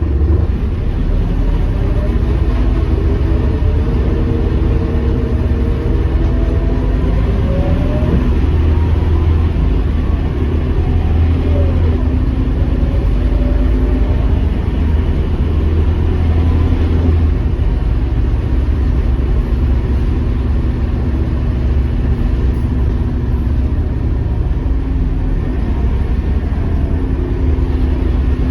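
Scania K230UB city bus's diesel engine running while the bus drives, a steady low rumble whose pitch rises and falls as it pulls away and changes gear.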